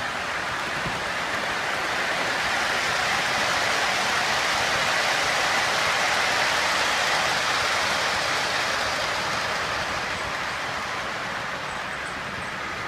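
A large-scale model train rolling along the layout's track, its metal wheels making a steady rushing hiss that swells to its loudest about halfway through and then fades as it passes.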